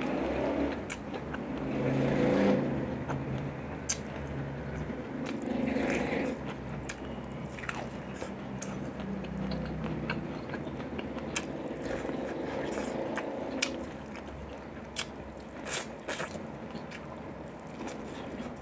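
Close-miked chewing and biting of boiled corn on the cob: wet, steady mouth sounds with many short sharp clicks scattered through.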